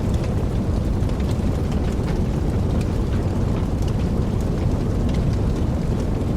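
Fire burning steadily with a low roar and frequent irregular crackles and pops.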